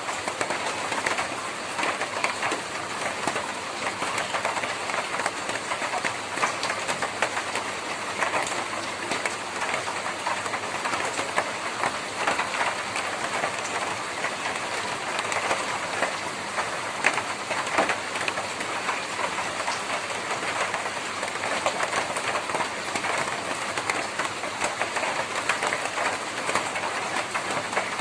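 Steady rain on a tin roof, a dense patter of drops ticking on the metal sheets.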